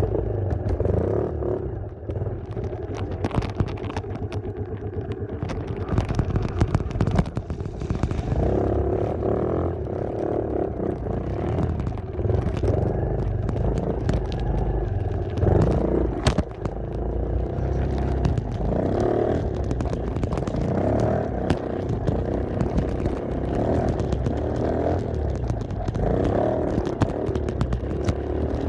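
Dirt bike engine running while riding, its note rising and falling with the throttle, over a constant low rumble of wind on the camera microphone and scattered rattles.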